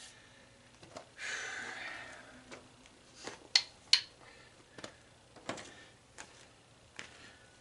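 Scattered knocks and clicks from pulling apart a tanning bed's plastic and metal parts, with a scrape about a second in and two sharp clicks near the middle, the loudest sounds.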